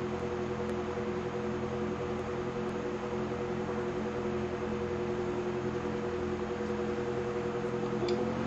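1935 Westinghouse electric table fan running: a steady motor hum with a few held tones over the rush of air from the blades, and a single click near the end.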